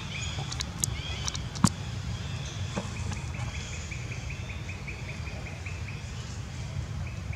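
Outdoor ambience: a small bird chirping, with a quick run of short repeated high notes from about three seconds in to near the end, over a steady low rumble. A few sharp clicks sound in the first two seconds, the loudest a little over a second and a half in.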